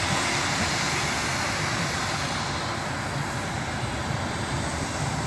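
Dragon's Fire jet truck's jet engine running steadily, an even rushing noise that eases slightly about halfway through.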